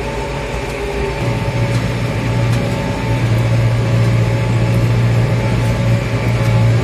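Farmtrac 675DT tractor's diesel engine running steadily under load, pulling a two-furrow plough; its note grows louder about a second in.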